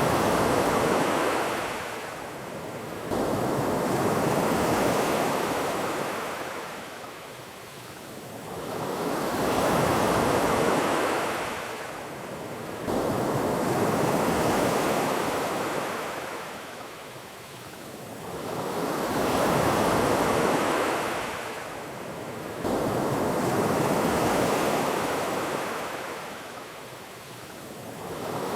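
Ocean surf: waves breaking and washing back, the hiss swelling and fading about every five seconds.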